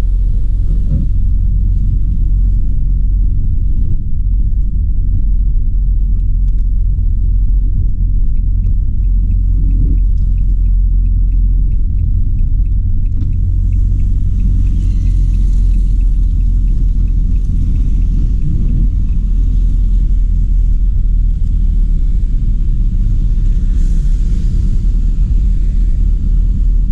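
Steady low rumble of a car driving, road and engine noise heard from inside the car. For several seconds in the middle a faint regular ticking, about two to three a second, runs over it.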